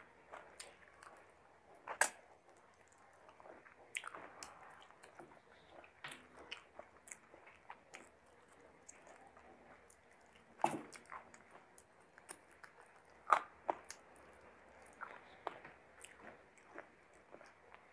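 Close-miked chewing and biting of chicken biryani and chicken curry eaten by hand: wet mouth clicks and smacks, with a few sharper, louder clicks about two seconds in, near eleven seconds and near thirteen seconds.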